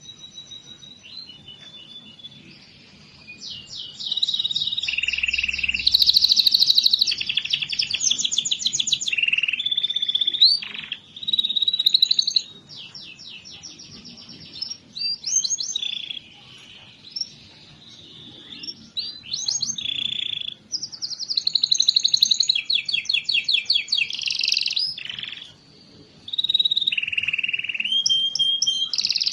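Domestic canary song: long, fast rolling trills and rapid runs of repeated high notes, in phrases of a few seconds with short pauses between. It is a lure song played to prompt canaries that are slow to sing.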